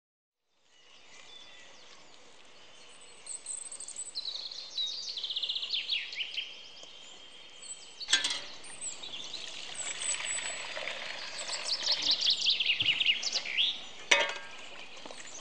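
Songbirds singing, fading in at the start: several rapid trilled songs that drop in pitch at their ends. Two sharp clicks cut through, one about halfway and one near the end.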